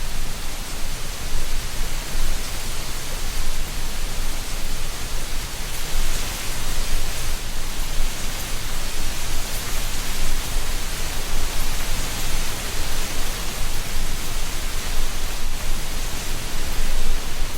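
Autumn wind blowing through a tree canopy and rustling dry leaves: a steady, even hiss that swells and eases a little.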